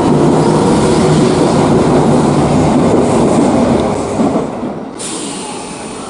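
Electric train running past on the rails, a loud rumble that fades away about four seconds in, with the sound changing abruptly about five seconds in.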